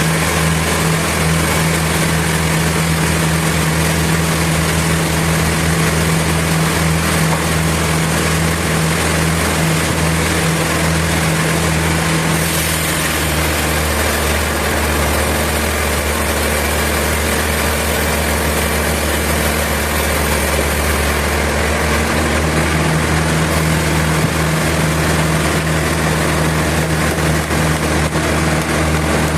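Sawmill machinery running steadily: a loud, constant motor hum with an even hiss over it, the tone shifting slightly about halfway through.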